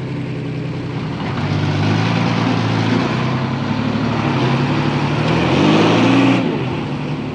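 Heavy diesel earthmoving engine revving up under load about a second in, holding, climbing in pitch near the end, then dropping back sharply to a lower run.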